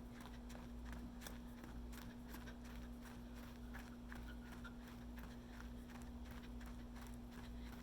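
Steady footsteps of a person walking or jogging at an even pace, about two to three steps a second, with a steady low hum underneath.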